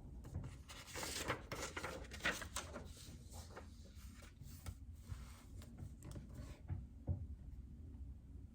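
Typing on a JJK84 mechanical keyboard with Outemu Silent Peach linear switches: a quick, uneven run of keystrokes that stops near the end.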